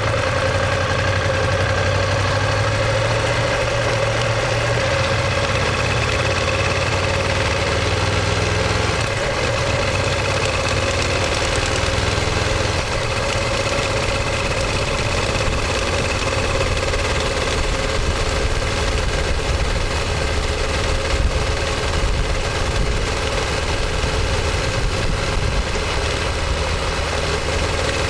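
Ducati Monster 1200S's L-twin engine and exhaust running steadily, its low note shifting slightly a few times.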